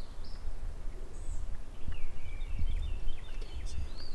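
Small birds chirping, with a quick run of high song notes about two seconds in, over a low rumble of wind on the microphone; a sharp click at the very end.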